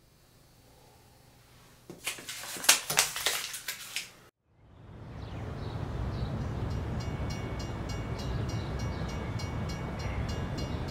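A brief burst of sharp clattering knocks, then the steady rumble of a light-rail trolley coming into a station, with a thin steady whine and a fast, regular ticking of about three a second.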